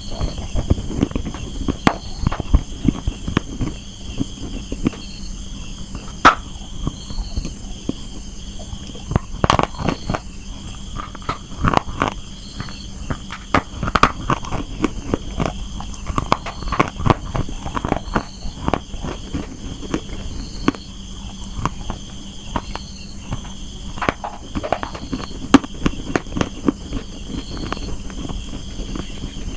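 Someone biting and chewing dry clay (slate pencil and multani mitti), irregular crisp crunches and cracks, some sharp and loud, over a steady faint hum.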